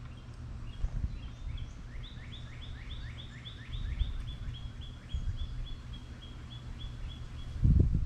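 A small bird calls a long series of repeated high notes, about four a second, for around five seconds, sharp and falling at first and then flatter. A steady low rumble runs underneath, and a dull low thump comes near the end.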